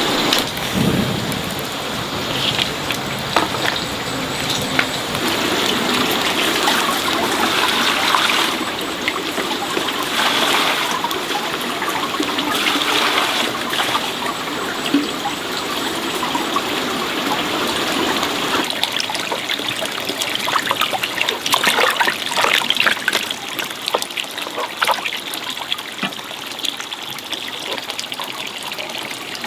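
Running water trickling and splashing, with many small clicks and knocks through it.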